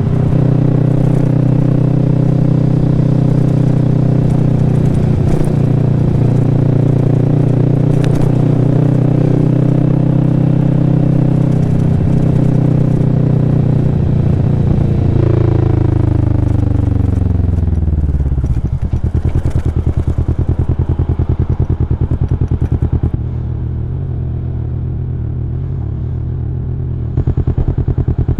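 Kawasaki Vulcan S's parallel-twin engine running at steady revs, then the revs fall away over about three seconds. From about 18 seconds in it runs at low revs with separate, distinct firing pulses.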